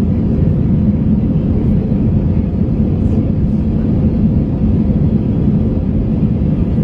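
Steady cabin rumble of an Airbus A321 climbing out after a go-around, engines at climb thrust with airflow noise and a faint steady hum.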